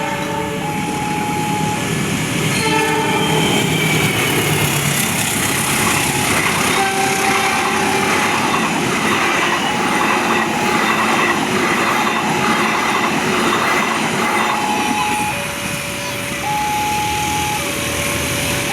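A train passes close by, with loud rumbling and a rhythmic wheel noise that repeats about once a second, lasting roughly ten seconds. A short multi-note train horn sounds about three seconds in. Before and after the train, a warning signal alternates between two steady tones, typical of a level-crossing alarm.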